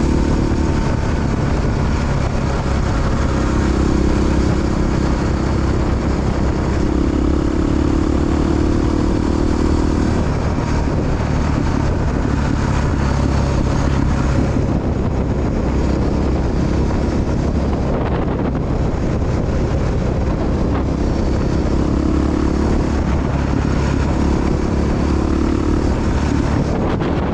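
Big single-cylinder Honda XR dual-sport motorcycle engine running under way, its pitch stepping up and down several times, with steady wind noise.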